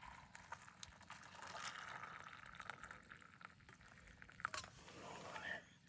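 Hot water being poured into a microwave macaroni and cheese cup, filling it to the fill line. It is a faint, steady pouring hiss that stops suddenly near the end as the cup reaches the line.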